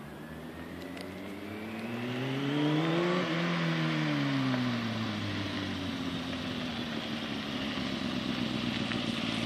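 Motorcycle engine rising steadily in pitch and loudness for about three seconds, then dropping back over the next few seconds and holding at a steady lower pitch.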